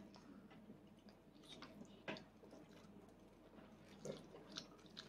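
Near silence: a toddler chewing food quietly, with a few faint clicks about two seconds in and near the end.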